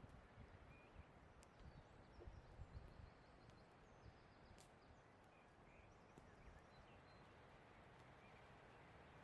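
Quiet campfire: burning wood giving a few sharp pops, loudest a little before halfway, over a faint forest background with faint bird chirps.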